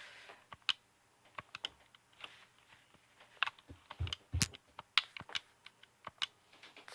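Irregular light clicks and taps, a few dozen over several seconds, with two duller, heavier knocks around four seconds in.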